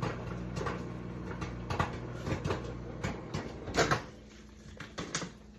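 Microwave oven running with popcorn kernels popping irregularly inside. About four seconds in, a louder knock comes and the oven's hum cuts off, followed by two clicks about a second later.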